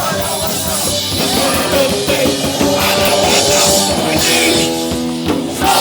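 Live hardcore punk band playing loud, with drums and distorted instruments.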